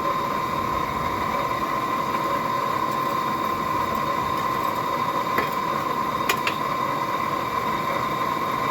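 Solid-fuel blacksmith's forge with its air blower running: a steady rush of air with a steady whine. Two faint light clicks come in the second half.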